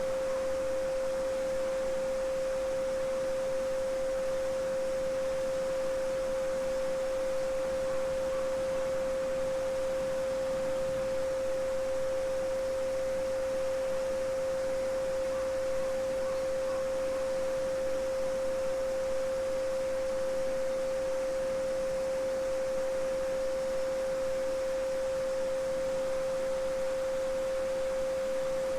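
A steady pure sine tone at 528 Hz (the so-called solfeggio frequency) held without change, over the soft, even murmur of a small stream.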